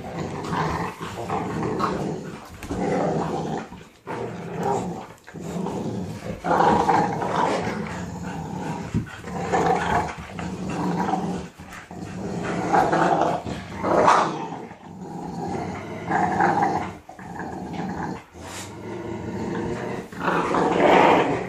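Several young dogs growling together while tugging on a rope, the growls swelling and easing in waves with brief dips. It is play growling, not aggression: normal dog play.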